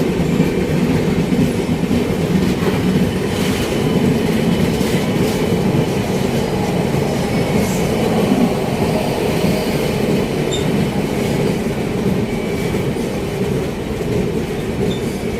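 Passenger train running at speed, heard from on board with a freight train running alongside: a steady, loud rumble of wheels on rail, with a few faint clicks from rail joints and a faint high wheel squeal.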